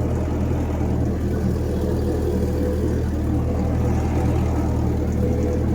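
1956 Massey Ferguson F40 tractor engine running steadily as the tractor is driven.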